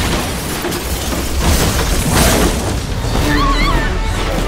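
Fireworks bursting and debris crashing, mixed with music from a film soundtrack. There are loud bursts about one and a half and two seconds in, and a wavering high tone follows about three seconds in.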